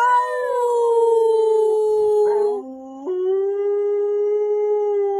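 A husky howling in one long, drawn-out howl that slides slowly down in pitch. About two and a half seconds in it drops briefly to a lower note, then jumps back up and holds steady.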